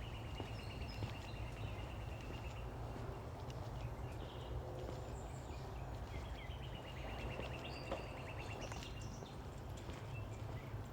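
A bird's rapid high trill of quickly repeated notes, heard twice, each lasting a few seconds, over a steady low rumble.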